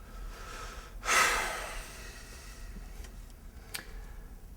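A man lets out a single heavy sigh about a second in, a loud breathy exhale that trails off, followed by a faint click near the end.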